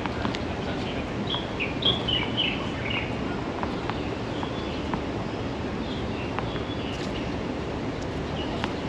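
Small birds chirping repeatedly over steady outdoor background noise, with a few sharp knocks of a tennis ball being bounced and struck with a racket, the loudest about two seconds in.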